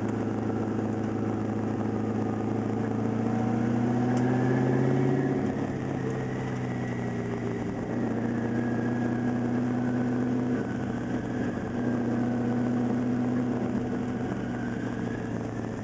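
Twin-turbo 370-cubic-inch LS V8 in an RX-7 running steadily at low speed under light load, its pitch rising a little and then easing back. It sounds smooth.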